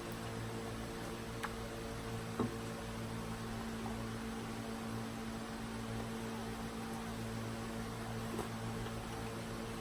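Steady electrical mains hum, with a couple of faint clicks in the first few seconds.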